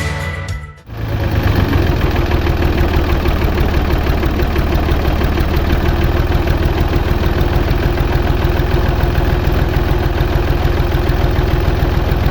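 A small engine starts up about a second in and runs steadily at idle, with a rapid, even chugging.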